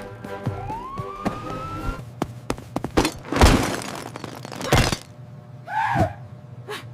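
Cartoon-style chase and capture sound effects: a siren-like tone rising in pitch over the first two seconds, then a run of knocks and thuds, with a loud crashing burst about three seconds in and another near five seconds.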